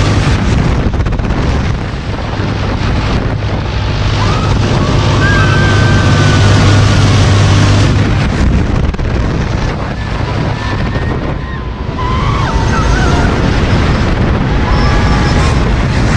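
Heavy wind buffeting on the microphone as the Mondial Turbine thrill ride swings the rider through the air, with a steady low hum from the ride's machinery that stops about halfway through. Faint shouts come through the wind.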